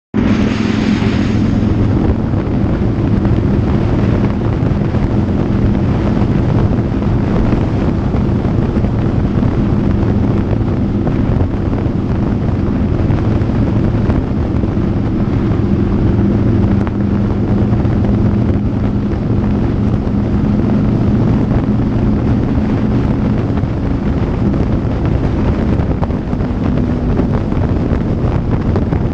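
Motorcycle engine running at a steady cruising speed, its drone holding a constant pitch, with wind rushing over the microphone.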